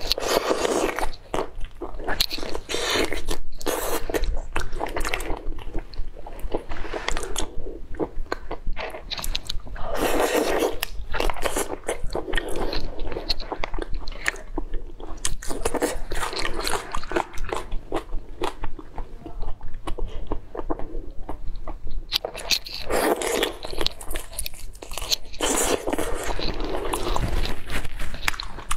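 Close-up biting and chewing of a large shell-on prawn, the shell crunching and crackling between the teeth in repeated bouts with short pauses.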